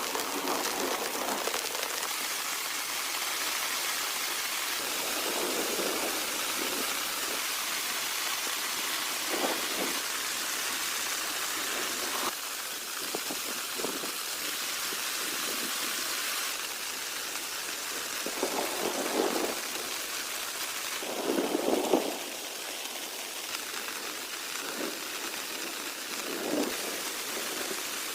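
Steady rainfall, with short louder lower swells every few seconds; the strongest comes about three quarters of the way through.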